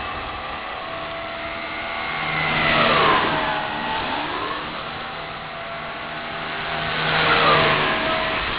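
Align T-Rex 250 SE flybarless electric RC helicopter flying past twice, its motor and rotor whine swelling and dropping in pitch as it goes by, about three seconds and again about seven and a half seconds in.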